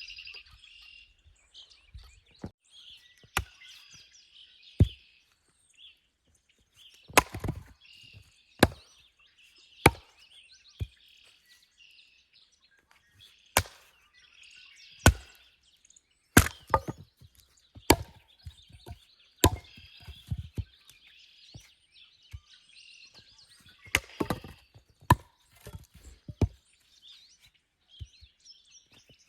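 Firewood being split by hand with an axe: sharp chopping strikes, some doubled as the split pieces knock apart, coming irregularly every second or so. Songbirds chirp steadily behind the strikes.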